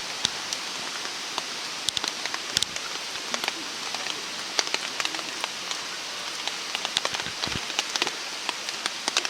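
Small wood fire burning in a FireFly backpacking wood stove, a steady hiss with frequent irregular sharp crackles and pops.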